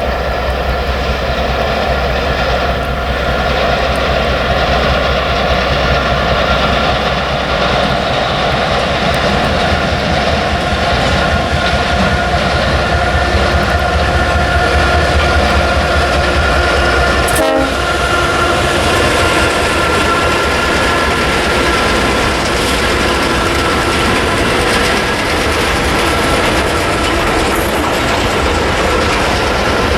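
A train running on the rails: wagons rolling, with several steady high tones held throughout. There is a brief break just past halfway.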